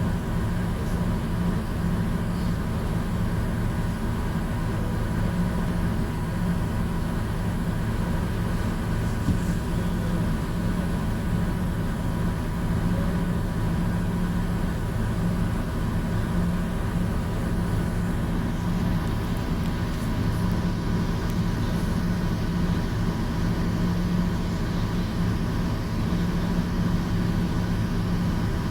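Passenger ferry's engine running underway with a steady, unchanging low drone and hum.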